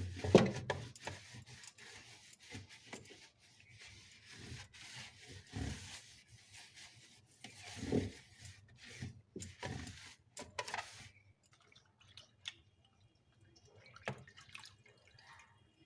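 Water splashing and dripping as a cloth is dipped in a bowl of Dettol-diluted water and wiped over the inside of a refrigerator, in irregular spells with a few soft knocks.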